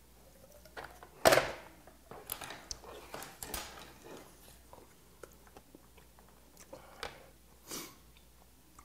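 Close-miked chewing and wet mouth sounds of a person eating boiled whelk meat. One loud sudden sound comes a little over a second in, followed by scattered short clicks and smacks.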